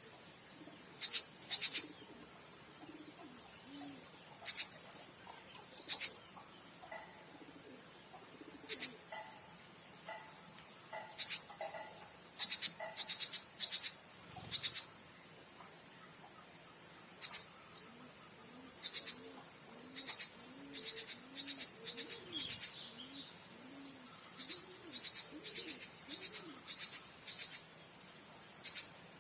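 Blue-crowned hanging parrots (serindit) giving short, sharp, high-pitched chirps in repeated bursts over a steady high insect drone. In the second half soft low cooing notes repeat about once a second.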